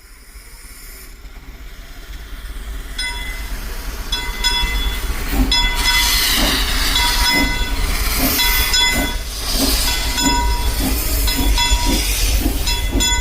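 Narrow-gauge steam train drawing near, growing louder over the first few seconds, with hissing steam and a steady, rhythmic beat. Short ringing tones come and go over it.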